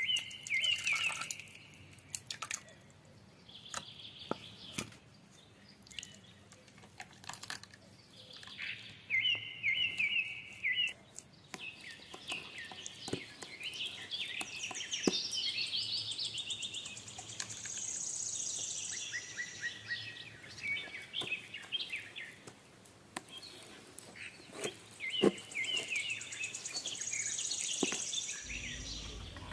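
Birds chirping and trilling in repeated short phrases, with scattered sharp clicks and taps.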